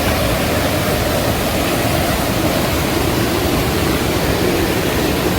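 Loud, steady rush of water: an even hiss with no rhythm or separate strokes.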